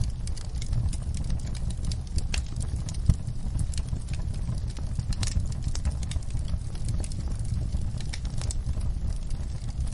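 Wood fire in a fireplace crackling and popping irregularly over a steady low rumble of the flames, with one louder pop about three seconds in.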